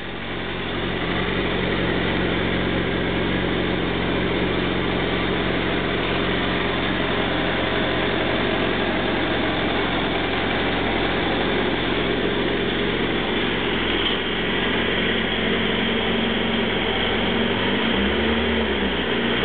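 2009 Suzuki Hayabusa's 1340 cc inline-four idling steadily through its stock exhaust canisters. The engine note briefly rises and falls in pitch near the end.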